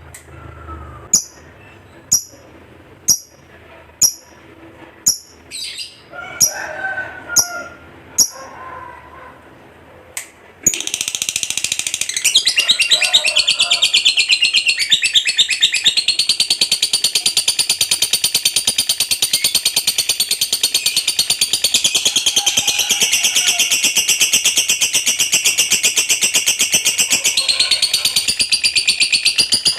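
Lovebird calling: single sharp high chirps about once a second, then, about ten seconds in, it breaks into a long unbroken rapid chattering trill, the 'ngekek panjang' song prized in contest lovebirds.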